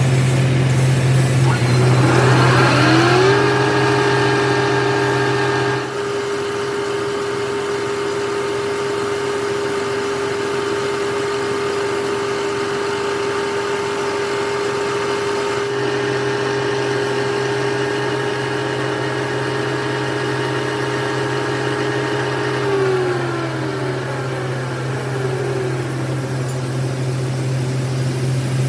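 Electric machine motor spinning up to speed over about a second, running at a steady pitch, then winding down near the end. A low steady hum underneath drops out for about ten seconds and comes back.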